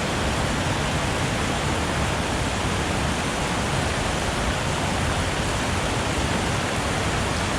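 Steady rush of fast-flowing water, an even hiss and roar that does not change.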